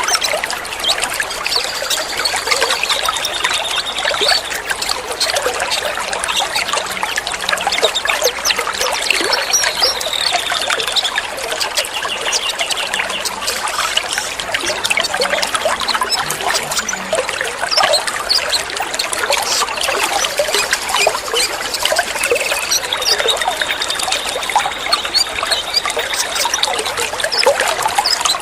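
Water trickling and splashing steadily, with a songbird's thin, high whistles coming in over it several times.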